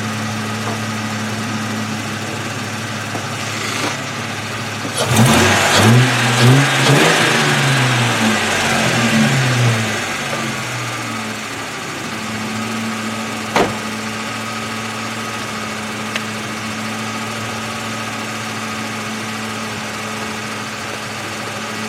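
2002 Ford Mustang's 3.8-litre V6 idling steadily, then revved in several quick blips about five seconds in, each rising and falling in pitch, before settling back to idle. A single sharp click about thirteen seconds in.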